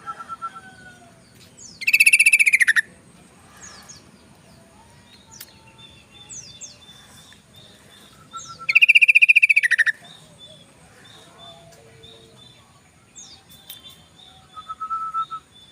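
Yellow-vented bulbul singing: two loud bursts of fast, rattling chatter about a second long each, one about two seconds in and one about nine seconds in. Softer short whistles and chirps come between them.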